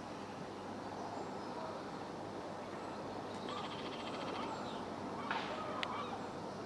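Birds chirping over a steady outdoor background hum, with a fast high trill about halfway through and a couple of sharp clicks near the end.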